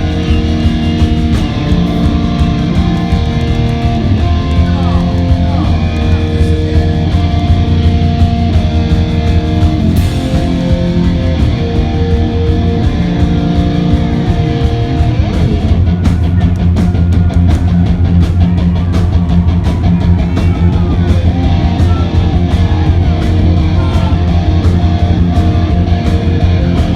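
Hard rock band playing live: distorted electric guitar over bass and drums, with held chords at first and the drums and cymbals hitting harder and more densely from about halfway.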